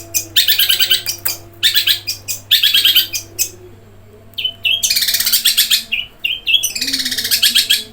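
Long-tailed shrike (cendet) singing in loud bursts of very fast, rolling chirps, each about a second long, with brief pauses between them. The song mimics Eurasian tree sparrow chirping.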